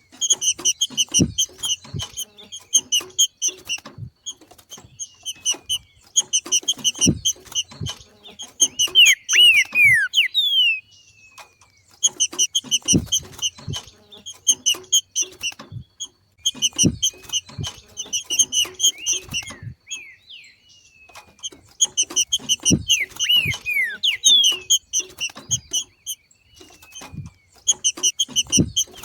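Green-winged saltator (trinca-ferro) giving its excited chattering 'macheado' call: about seven bursts of rapid repeated notes with a few down-slurred whistles, each burst a couple of seconds long with short pauses between. This call is a sign of a bird coming into breeding condition. Low thumps come along with the bursts.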